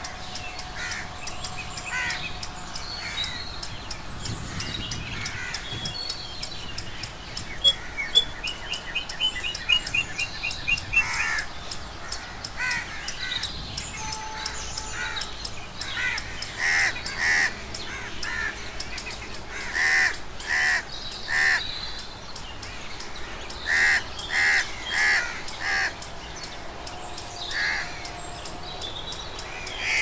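Wild birds calling: short, harsh calls in groups of two to four, most of them in the second half, with chirps and a quick run of high, even notes about nine seconds in.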